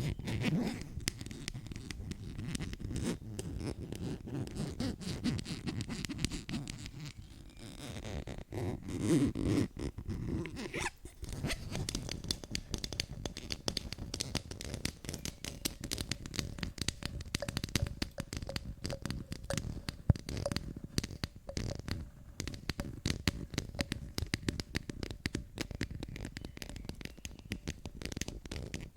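ASMR tapping and scratching close to the microphone: a dense run of quick taps and scratchy rubbing, with a louder stretch of rubbing about a third of the way in.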